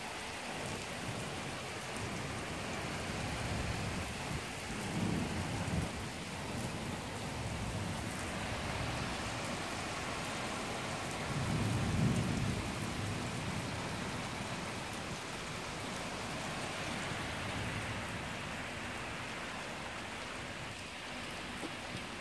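Heavy rain falling steadily, with thunder rumbling twice: a shorter rumble about five seconds in and a longer, louder one about twelve seconds in.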